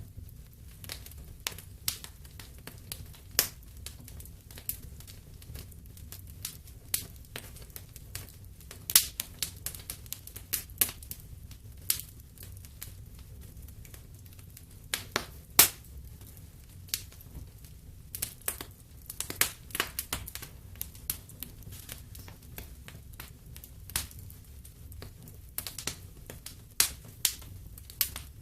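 Wood fire in a fireplace crackling: irregular sharp pops and snaps, a few louder ones, over a low steady rumble of the flames.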